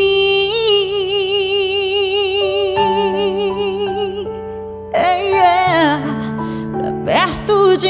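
Gospel song: a female voice holds one long note with vibrato for about four seconds over sustained backing chords, then sings a short falling phrase about five seconds in.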